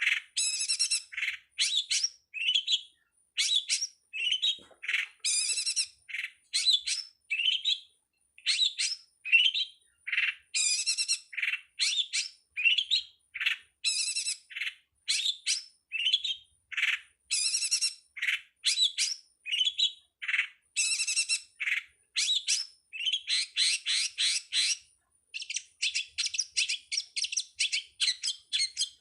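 Long-tailed shrike (pentet) song: a rapid, continuous run of varied chirps, trills and chattering notes with only brief breaks.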